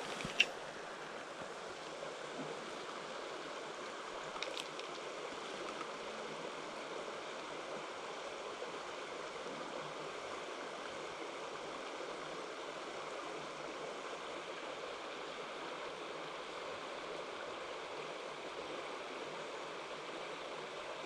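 Mountain stream water running steadily. A sharp click about half a second in and a fainter one around four and a half seconds.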